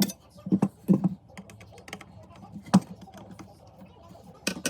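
Irregular sharp clicks and light knocks, about six spread unevenly over a few seconds, a cluster near the start and one near the end.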